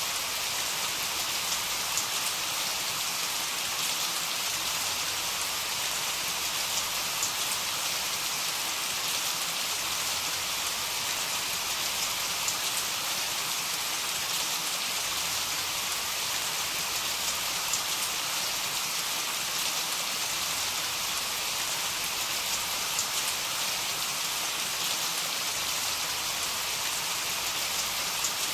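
Heavy rain falling steadily as an even hiss, with scattered individual drops ticking through it. No thunder is heard.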